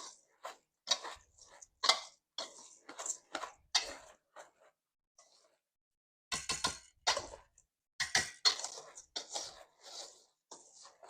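Washed raw rice being mixed in a bowl: a string of short gritty crunching strokes of the grains, about two a second, with a pause of nearly two seconds in the middle before the strokes resume.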